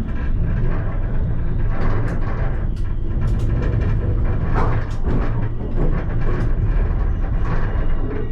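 Alstom Citadis tram running along the track, heard from the driver's cab: a steady low rumble with frequent short clicks and knocks.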